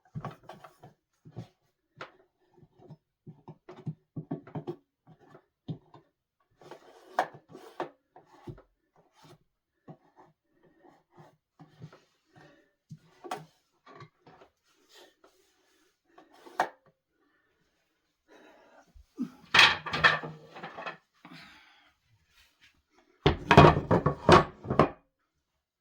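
Handling noises on wood: scattered light knocks, taps and rubbing as hands and tools work around a solid-wood dining table, with two louder spells of clattering, one about three quarters of the way through and one near the end.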